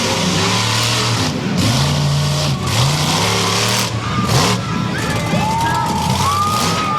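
Monster truck engine revving again and again, each rev a quick rise in pitch, over a loud steady wash of noise. A high held tone sounds in the last two seconds.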